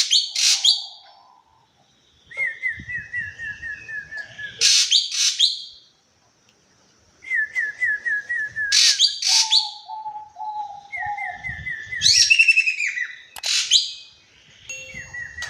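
A bird the Indonesian keepers call ekek keling calling: runs of short, clear notes, each dropping slightly in pitch, about five a second for two seconds at a time, broken by loud, harsh, scratchy calls. One run about halfway through is pitched lower.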